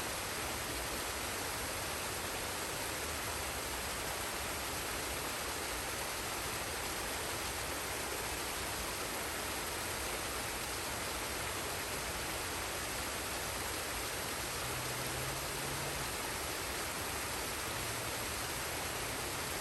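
Forest waterfall and stream: a steady, even rush of falling water.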